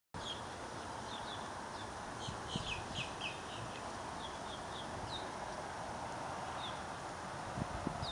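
Small birds chirping: short, quick high calls, many clustered in the first few seconds and a few more later, over a steady outdoor background noise. A few soft thumps near the end.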